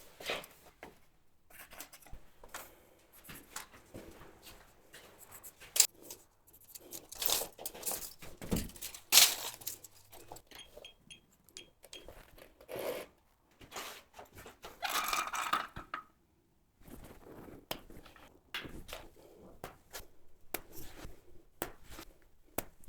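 Woodworking handling noises: scattered knocks, clicks and scraping, with a short rougher noise about 15 seconds in and a brief drop-out just after.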